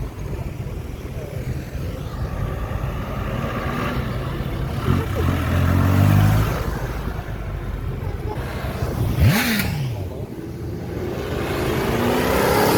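Car engines and exhausts as cars pull away: an engine revs up about five seconds in, a quick rev rises and falls around nine seconds with a sharp noisy burst, and another engine accelerates, its pitch climbing, near the end.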